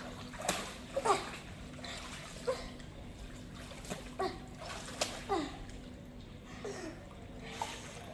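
Water splashing and trickling, with a handful of short splashes and plops scattered through it over a faint steady hum.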